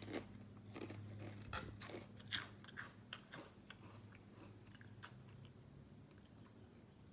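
A person chewing a crunchy potato chip: crisp crunches come quickly for the first few seconds, then thin out after about four seconds.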